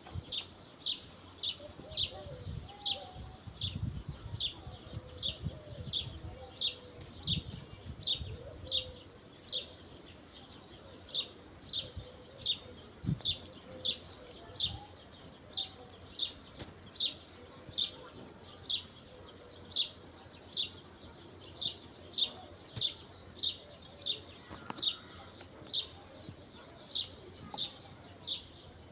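A bird repeating one short high chirp about one and a half times a second, with fainter lower bird calls now and then. A low rumble sits under it for the first nine seconds or so.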